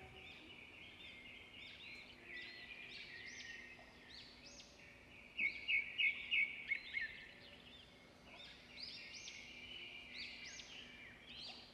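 Faint birds chirping: many short rising-and-falling calls, with a louder run of chirps about halfway through.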